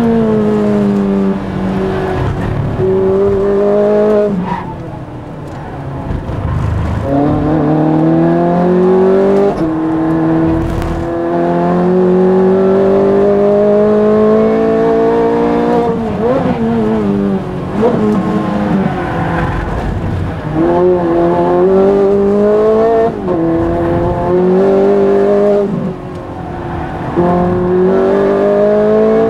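Ferrari race car's engine heard from inside the cockpit under hard acceleration, the revs climbing repeatedly and then falling away as the driver lifts and brakes, with quick throttle blips on the downshifts into corners.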